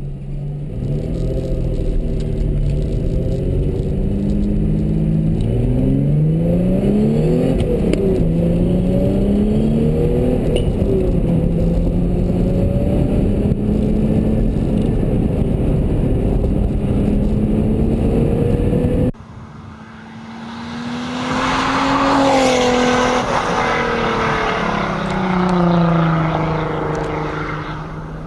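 Lamborghini Countach V12 engine under acceleration, heard inside the cabin, pulling up through the gears with its pitch rising and dropping at each shift. About two-thirds of the way through, the sound cuts to the outside, where the engine swells twice as the car accelerates and shifts, then eases off near the end.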